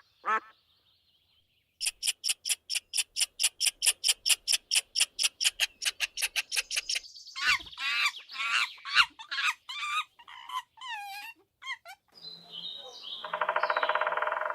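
Birds calling in a sequence of separate clips. First comes a fast, even run of high chirps, about six a second, then varied chirps that waver and fall in pitch, and near the end a different buzzy, trilling call.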